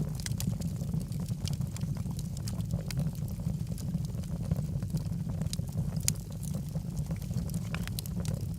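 Wood logs burning in a fireplace, crackling with frequent small sharp pops at irregular intervals over a steady low rumble of the flames.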